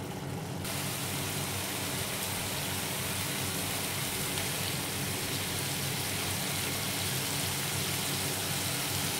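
Onion-tomato masala frying in melted butter in a frying pan: a steady crackling sizzle and bubbling that brightens about half a second in, with a faint low hum underneath. The masala is being fried down until the fat separates.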